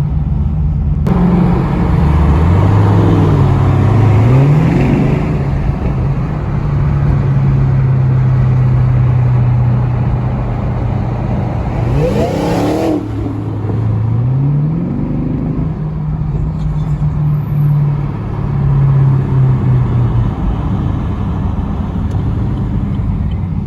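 Car engine running, revved up a few times with its pitch climbing and then settling back to a steady hum.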